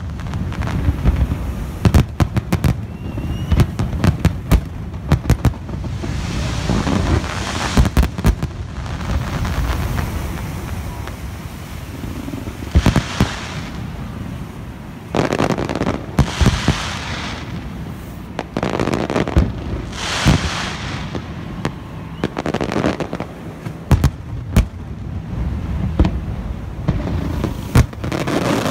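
Aerial fireworks going off in a dense barrage: rapid runs of sharp bangs, heaviest at the start and again near the end, with stretches of hissing between the volleys.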